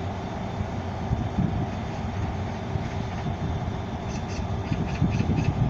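Korail Mugunghwa passenger train, hauled by a diesel locomotive, rolling slowly past: a steady low rumble of coaches and wheels on the rails, with a few paired clicks near the end.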